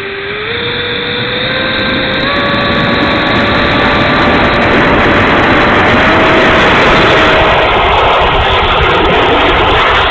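Twin 70 mm electric ducted fans (E-flite Vipers) of an RC Gloster Meteor jet spooling up, a whine climbing in pitch over the first two seconds and then holding, under a rushing of air that grows louder and covers the whine near the end. Heard from a camera mounted on the jet's tail.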